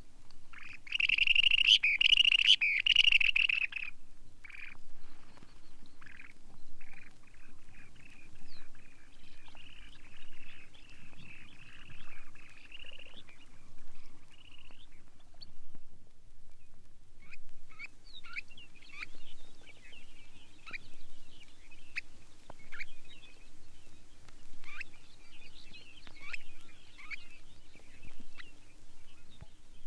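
Long-billed dowitcher calling: a loud burst of rapid chattering calls near the start, then softer quick twittering, and after a short pause a string of short, sharp falling notes.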